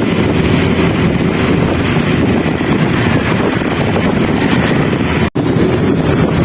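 Loud, steady rush of rain and wind buffeting the microphone. It drops out for an instant about five seconds in.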